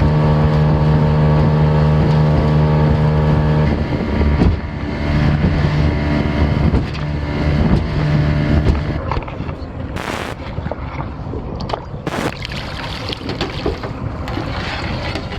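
Boat motor running steadily, its note wavering from about four seconds in and dying away by about nine seconds. Then a rushing noise with two sharp knocks.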